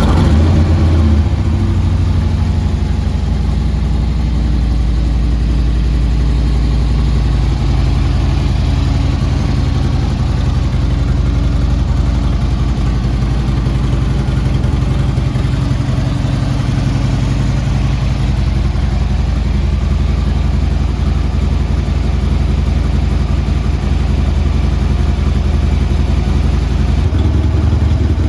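2016 Harley-Davidson Street Glide Special's air-cooled Twin Cam 103 V-twin idling steadily, just after starting.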